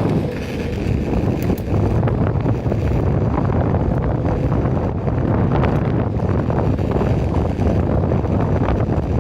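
Wind buffeting the phone's microphone while riding an electric skateboard: a steady, loud rushing rumble.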